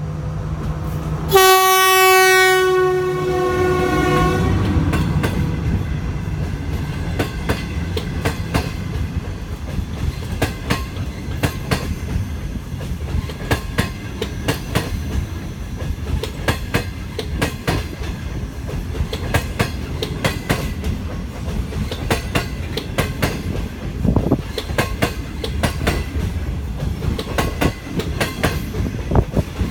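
An SS8 electric locomotive's horn sounds one low blast of about three seconds, starting about a second in and sliding a little lower in pitch as it passes. After it, passenger coaches roll by with a long run of clickety-clack wheel clicks over a steady rumble.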